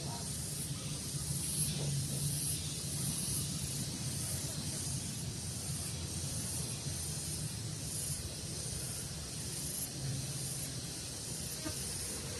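Daytime outdoor ambience: a steady hiss with a high, evenly pulsing shimmer running throughout and a faint low hum that comes and goes.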